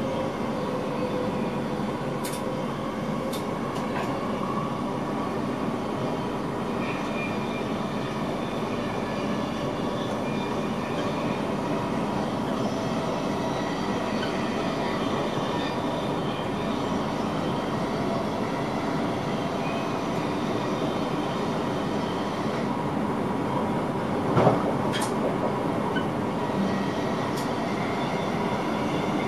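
Electric intercity train running at speed, heard from inside the driver's cab: a steady rolling noise with faint steady tones. There are sharp clicks about two and three seconds in, and a louder knock about 24 seconds in.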